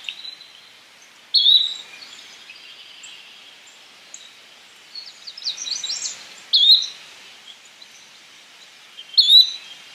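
Yellow-bellied flycatcher giving three short, rising whistled calls a few seconds apart. Fainter high chips from other birds and a light background hiss lie beneath.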